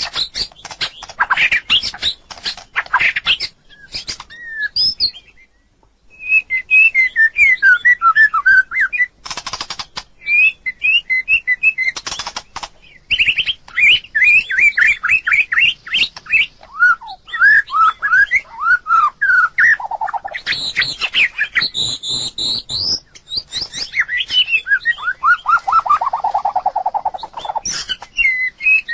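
White-rumped shama singing: a varied song of quick whistled notes and harsh chattering phrases, pausing briefly about five seconds in, with a run of lower rapid notes near the end.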